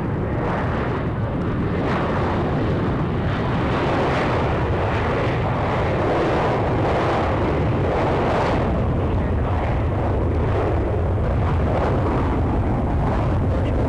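Commercial jet airliner engines at high power: a loud, steady rushing noise that builds over the first two seconds and then holds.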